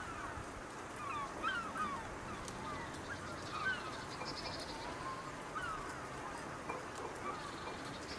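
Waterbirds calling over and over, many short calls overlapping.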